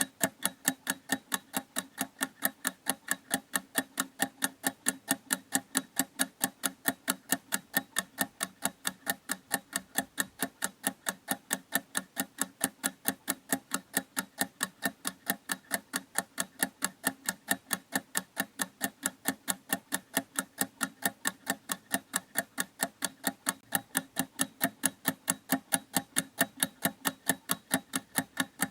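Clock ticking with a steady, even rhythm of sharp ticks.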